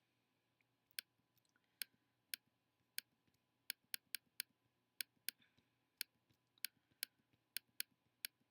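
Computer mouse button clicking, about sixteen single sharp clicks at an uneven pace of roughly two a second, as spots are dabbed out one by one with a Photoshop healing brush.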